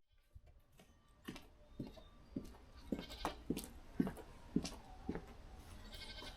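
Goats bleating: a run of short, fairly faint bleats, about two a second, starting about a second in.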